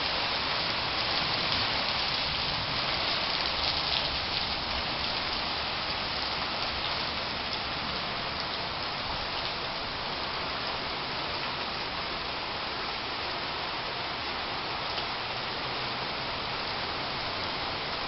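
Steady rain falling on garden foliage and ground in a summer downpour, a little louder in the first few seconds, then even.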